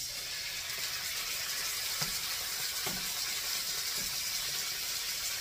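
Ground-chicken burger patties frying in oil in a skillet: a steady high sizzle, with a few faint taps.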